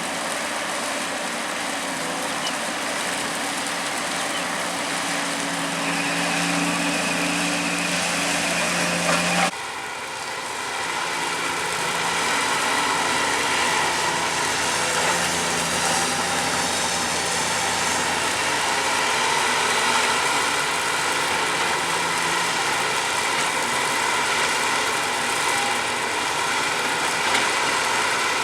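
Komatsu excavator's diesel engine running steadily at work, its sound changing abruptly about nine seconds in.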